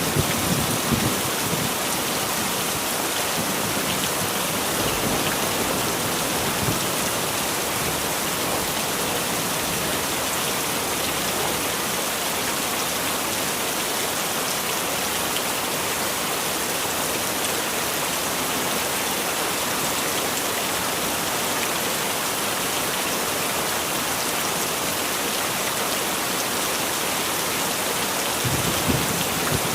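Heavy rain falling steadily, a dense even hiss, with a brief low rumble at the start and another near the end.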